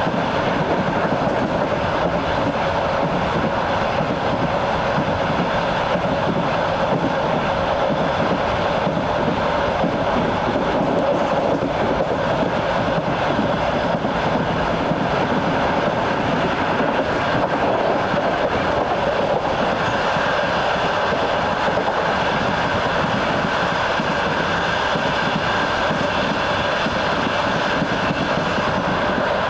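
A train's wheels running over the rails at speed, heard from aboard: a steady rumble and rattle of the wheels on the track.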